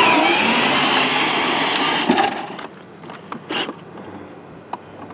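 Battery-powered ride-on toy car driving with a loud grinding noise from its motor and wheels that stops about two and a half seconds in. A few faint clicks and knocks follow.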